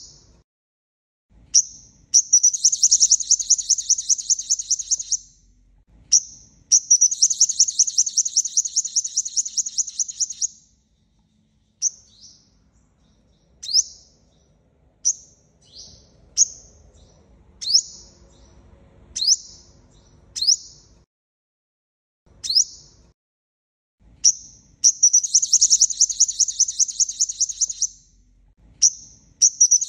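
A sunbird, the Vietnamese 'five-colour sunbird', singing as a decoy call. The high, rapid trills last about three seconds each, twice early on and again near the end. Between them comes a run of single sharp, falling chip notes, about one a second.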